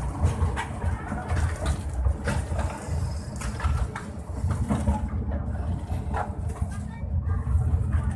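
Low, uneven vehicle rumble with scattered clattering clicks and background voices.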